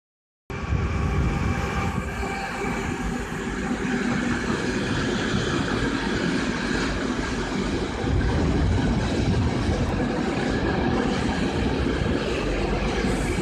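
Container freight train rolling past behind a red electric locomotive: a steady rolling rumble of wheels on rail that starts abruptly about half a second in.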